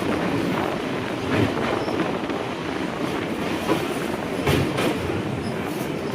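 Moving train running on the rails: a steady rumble with a few sharp clacks of the wheels over rail joints, two in quick succession about two-thirds of the way through.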